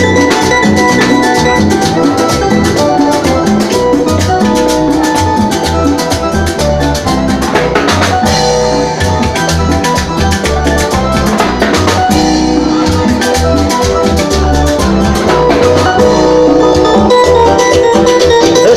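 Live Latin band playing an instrumental passage of a rumba-son: a steady, dense percussion groove under sustained melodic lines, with no singing.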